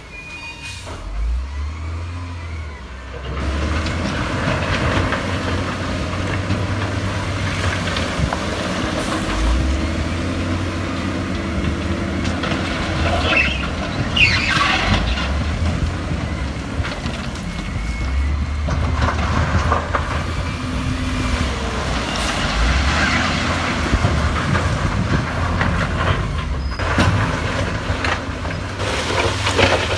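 Heavy diesel earthmoving machinery working: a low engine rumble, joined about three seconds in by loud, dense mechanical noise that carries on.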